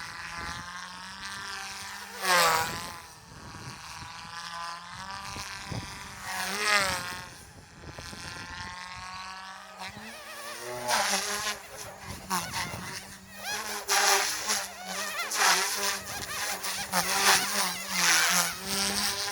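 Goosky S2 micro RC helicopter flying: a high, buzzing whine from its electric motor and rotors that rises and falls in pitch as it manoeuvres. In the second half come rapid, loud swishes of rotor noise.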